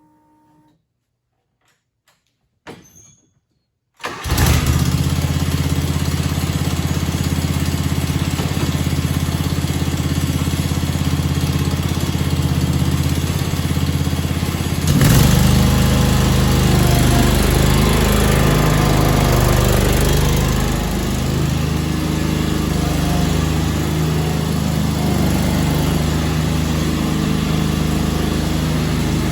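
John Deere X485 garden tractor's two-cylinder liquid-cooled Kawasaki engine starting: a short sound, then the engine catches suddenly about four seconds in and runs steadily. About eleven seconds later it gets louder and its pitch wavers for several seconds before settling into a steady run.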